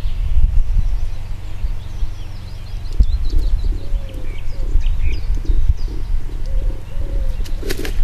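Wild birds calling outdoors: faint small-bird chirps, and from about three seconds in a low call repeated about three times a second, over a loud low rumble.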